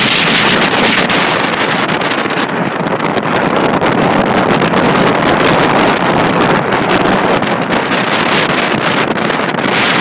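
Tropical-storm wind blowing hard across the microphone: loud, unbroken wind noise that swells and eases only slightly.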